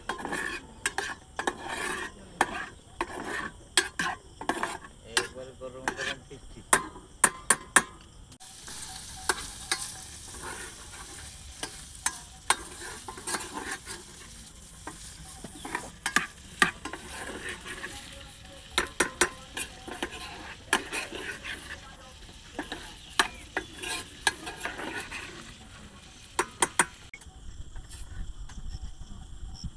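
A metal spoon knocking and scraping around in a cooking pot, quick sharp clicks. After about eight seconds, food starts sizzling in the hot pan while the stirring clicks go on, and it all cuts off suddenly near the end.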